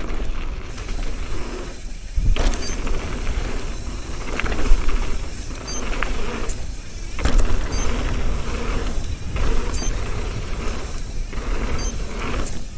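Mountain bike descending a dirt jump trail: tyres rolling over dirt and the bike rattling, with wind on the microphone and several sharp thuds from jump landings and impacts.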